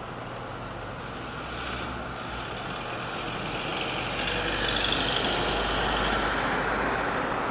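Road traffic noise: a heavy vehicle passing, a steady rumble and hiss that swells over several seconds and stays up near the end.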